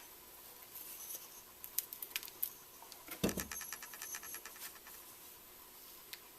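Metal strut parts being handled while a coil spring and its fittings are set onto a shock: scattered light clicks and scrapes, a knock about three seconds in, then a quick run of even ticks lasting over a second.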